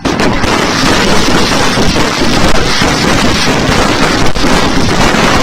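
Fireworks and firecrackers going off in a loud, dense, unbroken barrage of cracks and bangs.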